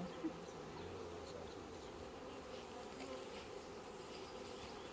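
Honeybees buzzing around an opened hive: a steady, continuous hum.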